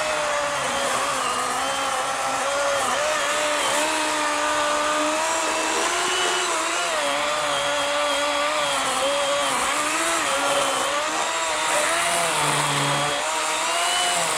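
Worx WG384.9 40-volt battery electric chainsaw, fitted with an 18-inch Oregon bar, cutting through a fallen log. Its motor whine holds steady, with small dips and wobbles in pitch as the chain loads up in the wood.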